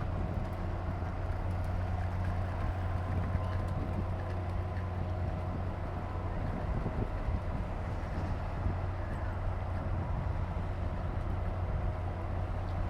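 Sightseeing boat's engine running with a steady low drone.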